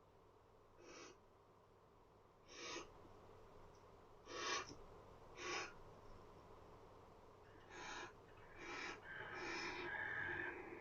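Barn owl giving short, breathy hissing calls, one every second or two. The last call, near the end, is longer and more drawn out.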